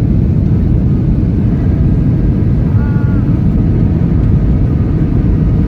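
Steady low rumble of a vehicle in motion, heard from inside, with no change in level.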